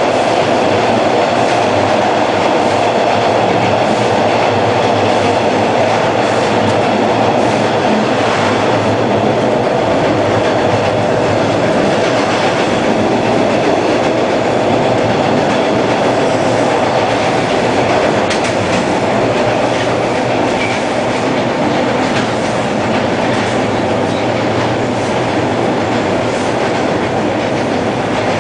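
Hawker Siddeley H4 subway car running between stations, heard from inside the car: a steady rumble of wheels on track with scattered light clicks.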